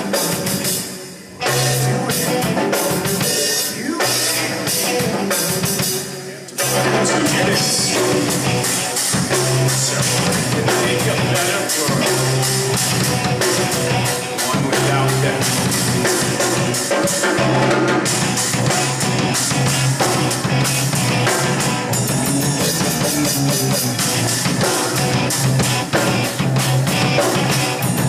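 Rock music with a full drum kit and guitar, dropping out briefly just after the start and again around six seconds in, then playing on without a break.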